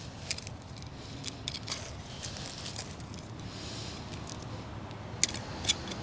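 Rustling and crackling of weeds and dry plant matter being pulled and handled, with scattered sharp clicks, two louder ones near the end.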